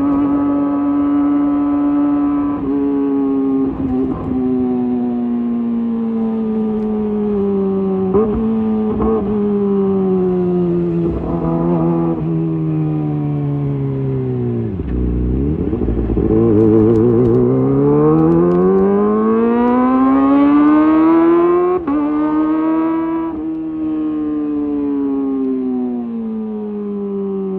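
Kawasaki ZX-25R's 250 cc inline-four running through a Leovince GP Evo high-mount exhaust. Its note falls slowly and dips low about halfway through, then climbs steadily to a high peak, drops suddenly, and falls away again.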